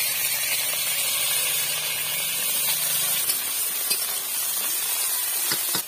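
Brinjal slices sizzling in hot oil in a kadai: a steady, high frying hiss.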